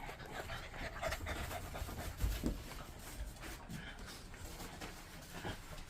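Boston terriers panting close by, with a soft thump about two seconds in.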